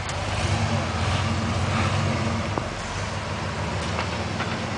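A truck engine running at low revs, a little louder for the first two seconds and then steady, with a few faint clicks.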